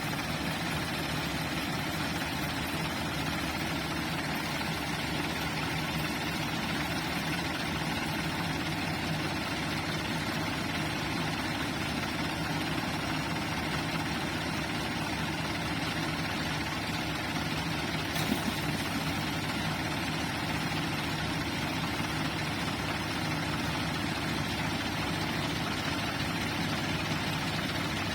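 Ford farm tractor engine running steadily at an even speed, with one short click about two-thirds of the way through.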